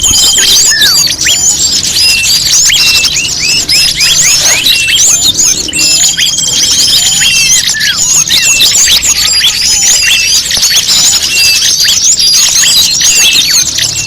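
Bird-lure recording of many small songbirds calling at once: a loud, dense chatter of quick, high chirps and whistles. A short buzzy trill comes near the start and again about six seconds in.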